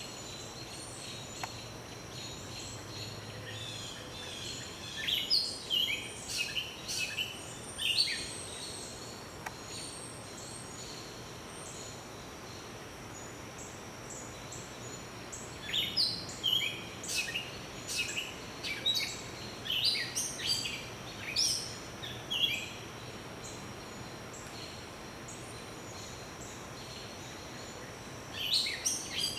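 Songbirds singing in the tree canopy: bouts of short, quick, high phrases and chirps a few seconds in, again through the middle, and again near the end, with quieter stretches between.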